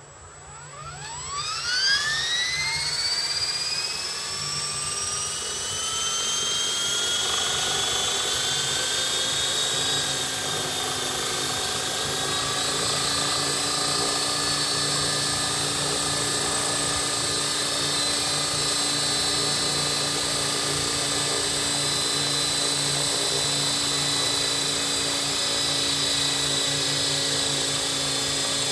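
Blade 400 electric RC helicopter spooling up: the motor and gear whine rises steeply in pitch over the first few seconds, then holds a steady, high whine with the rotor running at speed.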